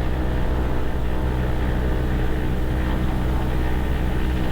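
Cessna 172's piston engine and propeller running at about 1700 RPM during the pre-takeoff run-up, a steady drone held through the magneto check.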